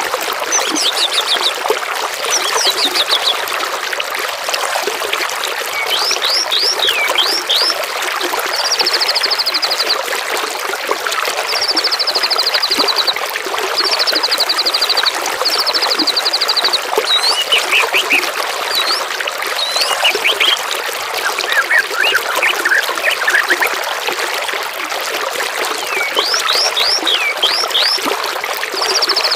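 Steadily flowing, trickling water with songbirds calling over it: quick runs of short, high falling whistles and several high trills of about a second each, repeated through the stretch.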